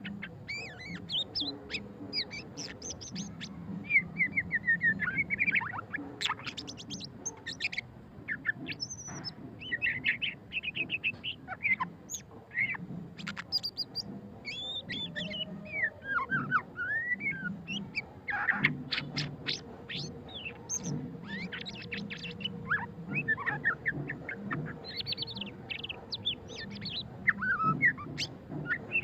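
White-rumped shama singing a continuous, varied song of whistled sweeps, rapid trills and chattering notes, with short pauses between phrases.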